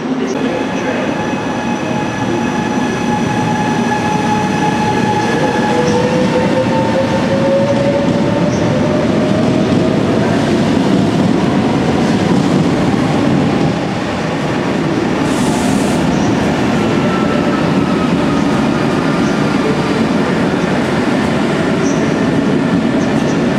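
Electric passenger trains running along an underground station platform: a steady rumble of wheels on the rails, echoing under the station roof, with a whine rising in pitch between about 4 and 10 seconds in.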